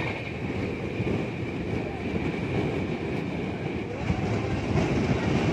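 Express passenger train running on the rails: a steady rumble of wheels on track with a faint high whine above it, growing a little louder about four seconds in.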